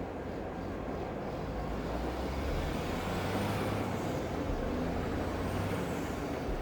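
Steady city ambience with a large vehicle passing: a low drone swells about two seconds in and eases off near the end, with faint high squeals over it, over a constant hiss.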